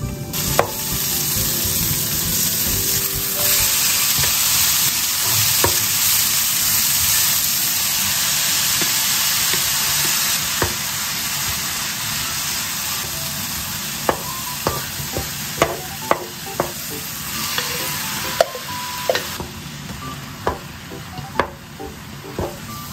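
Chopped green onions, then diced vegetables and tofu, sizzling in oil in a nonstick frying pan while being stirred with a wooden spatula. From about two-thirds of the way through, the spatula knocks against the pan in a string of sharp clicks.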